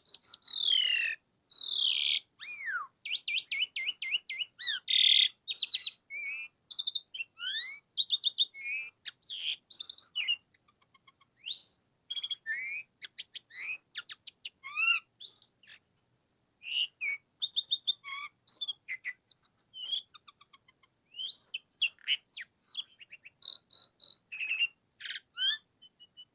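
Jalak suren (pied starling) in full song: a long, varied run of loud whistles, rapid trills, clicks and chattering notes that swoop up and down in pitch, with hardly a pause.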